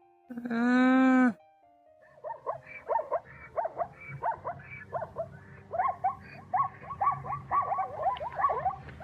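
A one-second moo from a bovine, most likely a calf given its fairly high pitch, falling slightly at the end. From about two seconds in it is followed by a long run of many short, quick chirping calls over a faint low hum.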